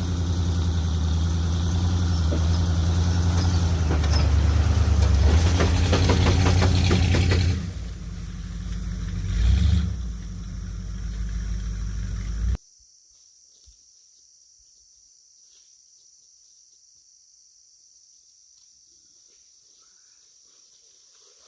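Jeep J20 pickup's engine running hard, with a loud rattling rush over it from about four seconds in to about seven and a half seconds. The engine then runs more quietly until the sound drops off abruptly past the middle, leaving only a faint background.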